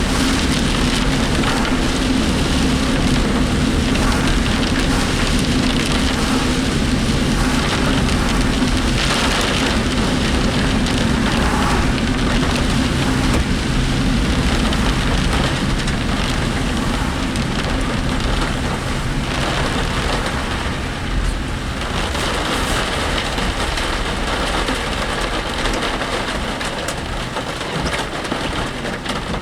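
Heavy typhoon rain on a moving vehicle and tyre noise on a wet road, heard inside the cabin, with a steady low drone that fades about halfway through.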